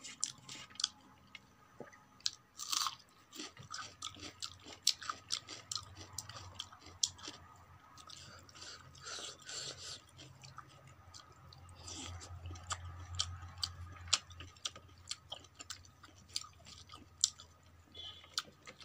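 Close-miked chewing of a mouthful of rice and vegetables, with many short wet mouth clicks and smacks and some crunching. Fingers work rice on a steel plate, and a low steady hum sits underneath.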